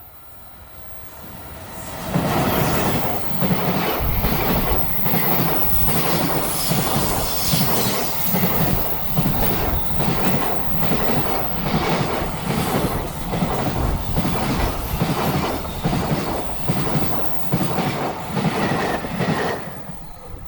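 Freight train passing close by at speed, its wheels clacking over the rail joints in a steady rhythm. It builds up loudly about two seconds in and falls away just before the end.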